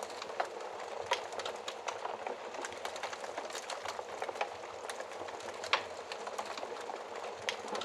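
Wood fire in a fireplace crackling steadily, with a hiss under many small irregular snaps and a few louder pops, one about a second in and one near the six-second mark.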